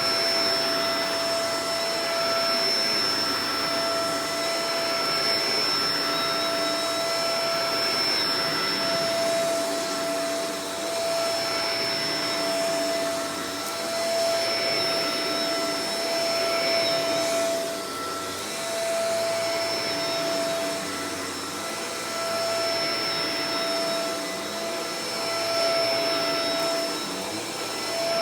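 Shark Professional Powered Lift-Away DLX (NV586) vacuum cleaner running, a steady motor whine over a rush of airflow. Its loudness rises and dips gently every few seconds.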